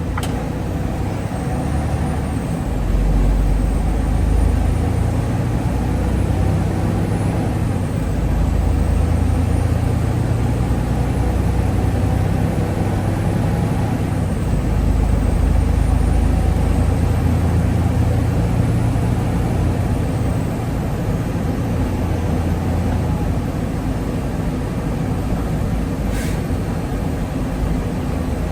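Semi truck running: a steady low engine drone that swells and eases several times, with a faint high whine gliding up and down and a single sharp click near the end.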